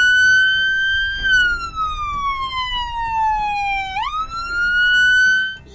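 Police car siren sounding a wail through the car's front siren speaker: a single tone that holds high, slides slowly down over about three seconds, sweeps quickly back up and cuts off near the end.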